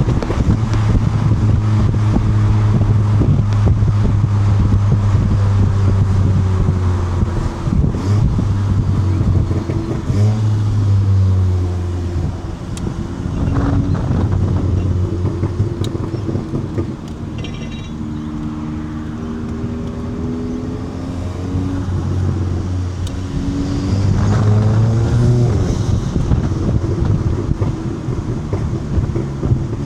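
Volkswagen Mk7 GTI's turbocharged 2.0-litre four-cylinder running through an ARM Motorsport 4.5-inch downpipe while driving: a steady engine drone whose pitch falls and rises again several times, around ten, eighteen and twenty-five seconds in, as the car slows and pulls away.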